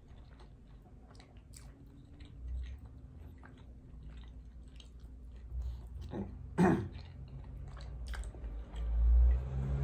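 Close-miked chewing of soft braised tofu, with small wet mouth clicks and smacks and one louder bite about two-thirds of the way through. A low rumble rises near the end.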